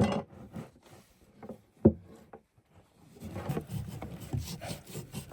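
Kitchen cleaver chopping smoked pig head meat on a wooden chopping board: a sharp chop right at the start and another about two seconds in, then a few seconds of the meat pieces being shuffled and scraped across the board.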